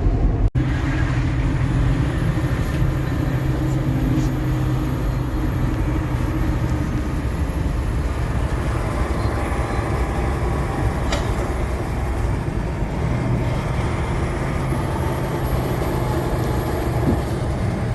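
Kenworth T680 semi-truck running down the highway: a steady diesel engine drone with road and tyre noise.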